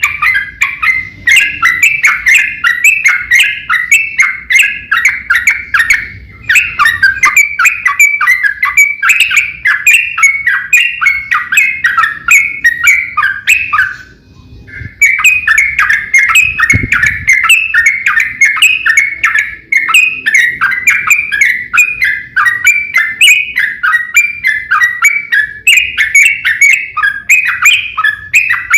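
Trucuk (yellow-vented bulbul) singing a fast, unbroken stream of chattering, warbled notes in the 'ropel' style, with one brief pause about halfway through.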